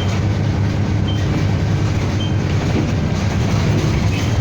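City bus engine and road rumble heard from inside the moving bus's cabin, steady and low. A short high beep sounds about once a second in the first half.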